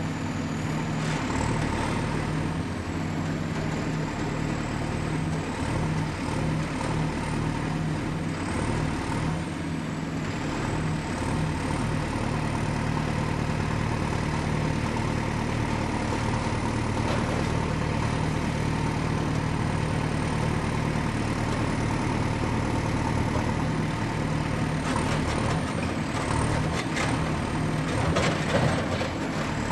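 Excavator's diesel engine running steadily at work, with a thin high whine wavering in pitch throughout. A few sharp clanks come near the end.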